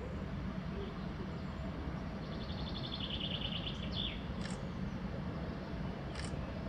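Small songbirds calling: a rapid high trill about two seconds in, then a few short whistles sliding downward. Under the calls is a steady low background rumble.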